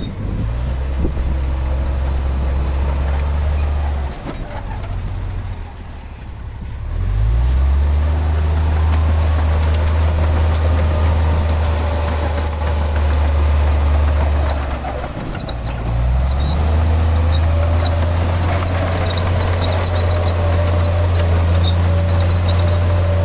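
Heavy diesel engine of a bulldozer running under load. It eases off twice, about four and fifteen seconds in, then climbs back up and runs steadily again.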